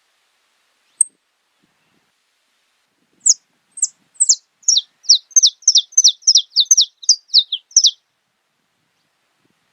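Saffron finch (canário-da-terra) singing: one short high chip, then a run of about twenty quick, high notes, each sliding downward, starting slowly and quickening to about four notes a second before stopping.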